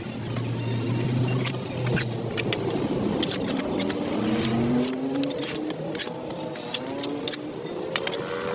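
A motor vehicle engine running, its pitch sliding up and down, over many sharp, irregular clicks.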